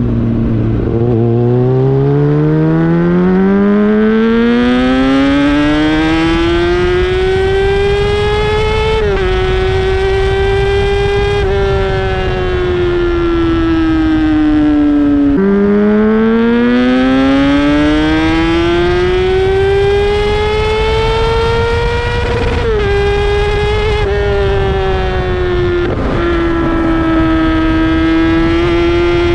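Inline-four sport bike engine being ridden hard: the revs climb steadily, drop in small steps at upshifts, fall away under closed throttle around halfway, then climb again through further gear changes.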